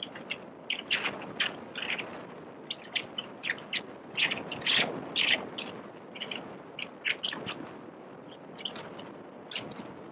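Small birds chirping, many short high calls coming irregularly and often, over steady background noise.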